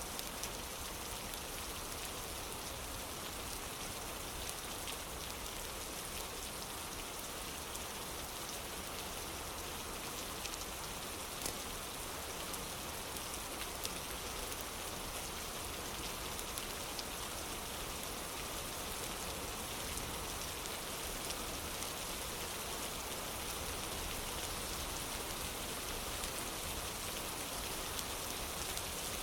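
Steady rain falling on a wooden porch: an even, continuous hiss with scattered small ticks of individual drops.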